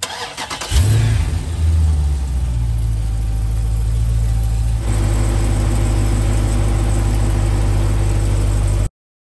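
Dodge Challenger Scat Pack's 392 (6.4-litre) HEMI V8 being cranked and started: it catches with a rev flare under a second in, then settles into a steady idle. The engine note changes and fills out about five seconds in, and the sound cuts off suddenly near the end.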